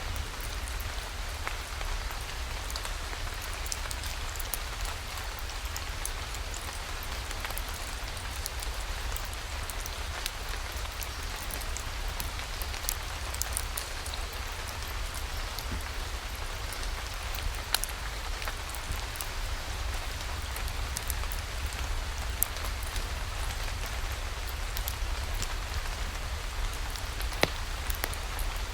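Steady rain falling, with scattered sharp ticks standing out from the even hiss of the rainfall.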